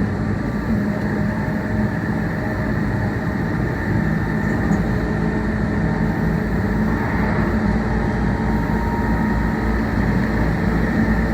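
Meitetsu 1800 series electric train running at speed, heard from inside the car: a steady rumble of wheels on rail, with low steady tones.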